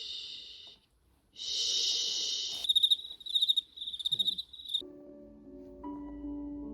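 Baby white noise machine stepping through its sounds: two short bursts of steady hiss, then about two seconds of rapid cricket chirping, then a soft lullaby melody starting about five seconds in.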